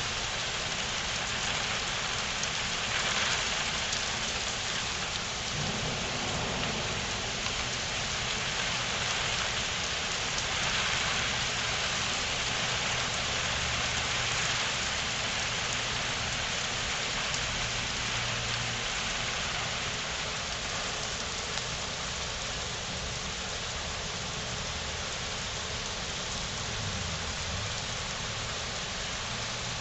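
Rain falling steadily, with a faint low rumble coming and going underneath through the middle and near the end.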